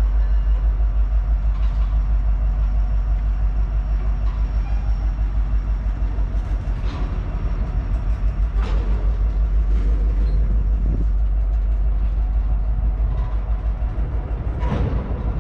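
Freight train of tank cars rolling slowly past: a steady low rumble from wheels on rail, with a few sharp clanks and squeaks, the clearest near the end.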